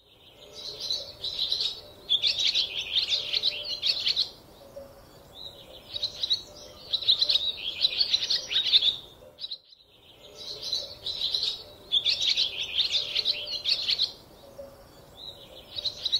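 Small songbirds chirping and twittering rapidly in bursts of a couple of seconds, with short pauses between phrases. The sound drops out for a moment about ten seconds in.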